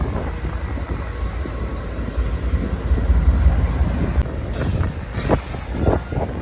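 Union Pacific freight train running by with a steady deep rumble and wind buffeting the microphone, with a few sharp metallic knocks about four and a half to six seconds in.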